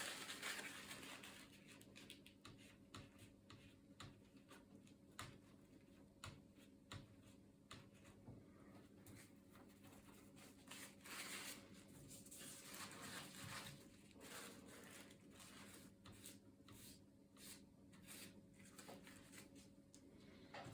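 Faint handling noises: irregular small clicks, taps and rustling, like small parts and tools being handled during laptop disassembly, over a low steady hum.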